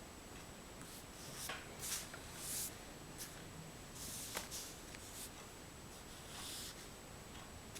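Oil pastel strokes scratching across paper, about five short strokes in a row with a couple of light taps. A faint steady high whine sits underneath.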